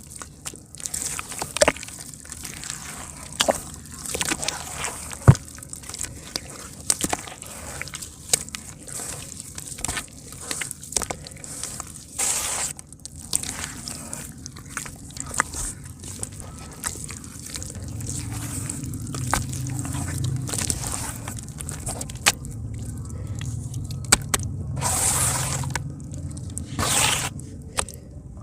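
Chunks of soft dirt crumbling and dropping into water: irregular plops, splashes, sloshing and drips, with sharp clicks scattered throughout. A low steady hum comes in about two-thirds of the way through.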